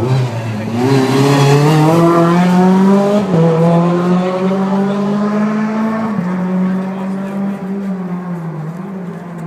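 Sports car engine accelerating hard, its note climbing and stepping down twice with upshifts, then fading as the car pulls away.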